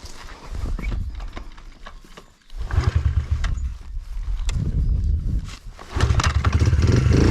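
Dirt bike engine being kick-started: it fires unevenly on two attempts, then catches about six seconds in and runs steadily. It starts when kicked with the throttle closed, after earlier attempts had likely flooded it.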